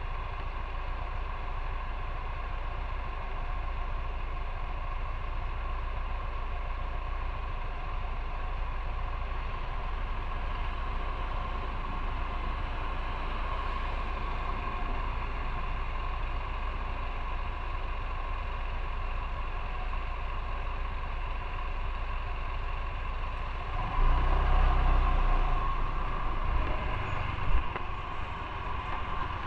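Motorcycle riding sound from on the bike: steady engine and road noise. Near the end a louder low rumble comes in for a few seconds.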